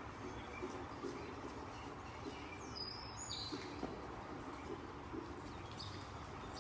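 Small birds chirping now and then over a steady background hiss, with faint soft thuds of a horse walking on the arena's dirt footing.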